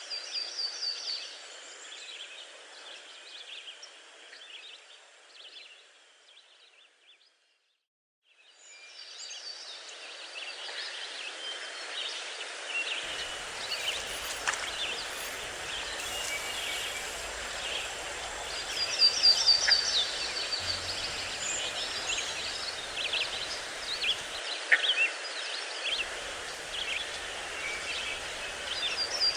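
Outdoor ambience with small birds singing: scattered high chirps and a short run of high notes repeated every several seconds. The sound fades to near silence about a quarter of the way in, then comes back.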